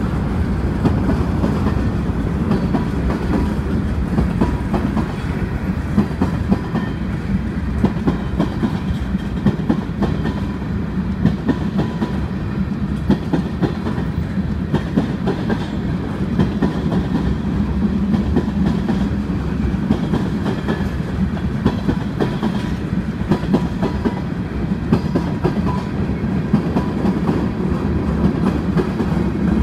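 Freight cars of a CSX train rolling steadily through a road crossing: a continuous low rumble with the clickety-clack and knocking of wheels over the rail joints.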